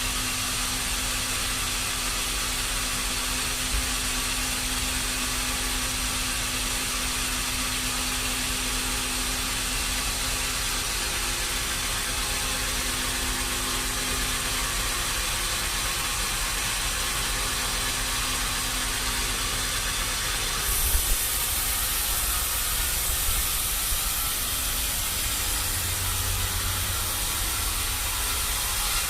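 Steady machine noise with a hiss. About two-thirds of the way through it turns brighter and hissier, and a few short knocks sound.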